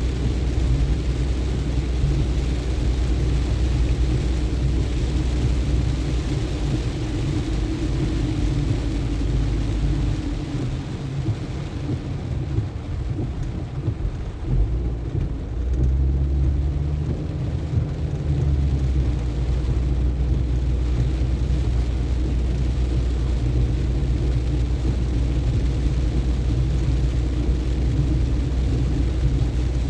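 Car driving on a road in the rain: a steady low rumble of engine and tyres with a hiss of rain, easing briefly about ten to fifteen seconds in.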